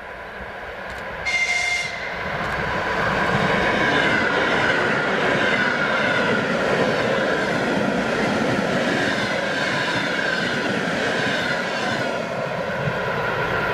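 ЭП2Д electric multiple unit giving a short horn blast about a second in, then passing close by: loud rail and wheel noise, with a motor whine that falls in pitch as it goes by.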